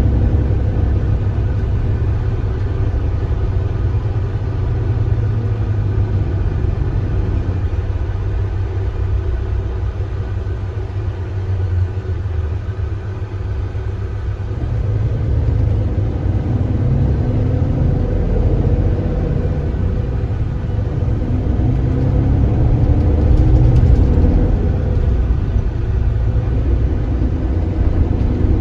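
Kia Granbird Sunshine coach's diesel engine running under way, a steady low rumble that eases off briefly, then climbs in pitch in stretches as the bus accelerates.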